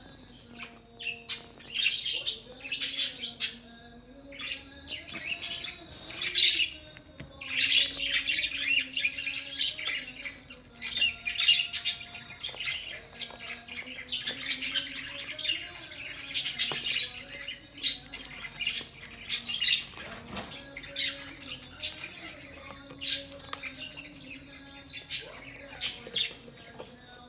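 Budgerigars chirping and chattering continuously, many quick high chirps overlapping with no break.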